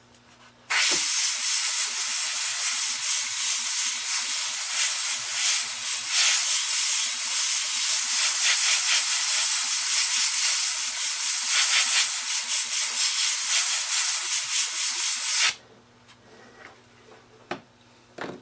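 Loud, steady hiss of pressurised air or spray jetting from a nozzle onto a freshly shellacked wooden piece, starting abruptly and stopping abruptly after about fifteen seconds.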